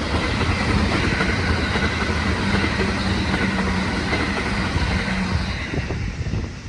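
Electric commuter train running through the station: a steady rumble with a faint steady whine that eases slightly near the end.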